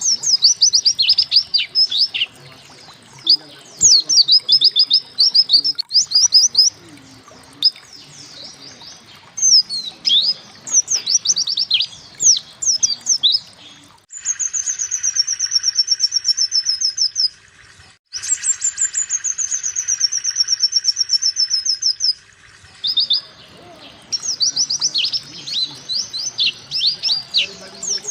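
Pleci (white-eye) singing in quick, two-second phrases of sharp, high, downward-sweeping chirps. Twice, in the middle, the song runs into a long, rapid trill that slowly falls in pitch.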